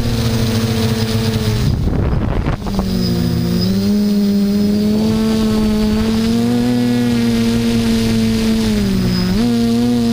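HT-FPV Hoverthings quadcopter's electric motors and propellers humming, the pitch sliding up and down as the throttle changes. There is a brief rush of wind noise about two seconds in, and the hum dips and recovers twice.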